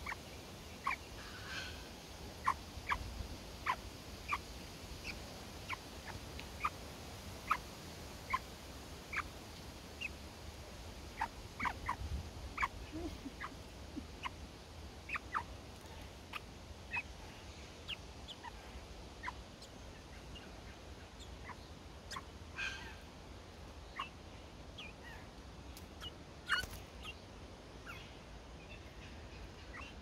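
Butcherbird nestlings calling from the nest: short, sharp chips repeated at irregular intervals, about one or two a second, over a low steady rumble.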